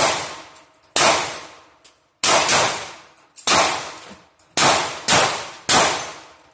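Pistol shots fired one at a time at an irregular pace, about eight sharp cracks, each with a ringing tail, two of them in quick succession a little over two seconds in.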